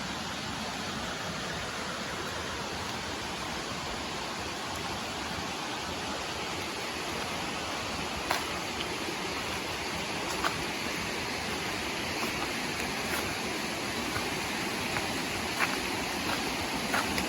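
Steady rush of flowing water from a rainforest creek and waterfall. A few sharp clicks break in from about halfway, more often near the end.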